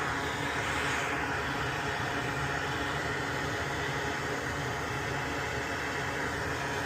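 Steady hiss with a low hum underneath, from a machine running continuously.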